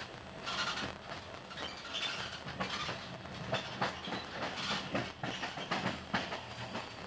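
Passenger train running, heard from inside the carriage: a steady rumble with irregular clicks and clunks as the wheels cross the track.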